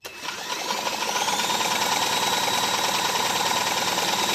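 A motor whine that rises in pitch over about the first second and then holds steady over a fast, even rattle: the Toro mower engine being spun over while a spark plug is checked for spark.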